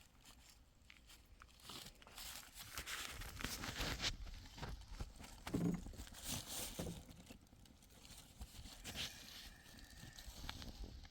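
Irregular crunching and rustling handling noises with scattered clicks, heaviest in the middle.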